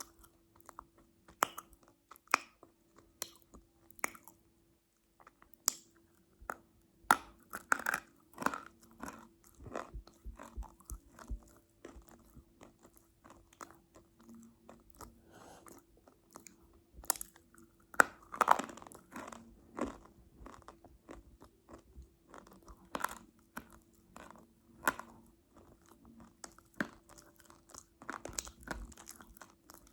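Close-miked chewing of crunchy food: a series of irregular sharp crunches and bites, with a faint steady hum underneath.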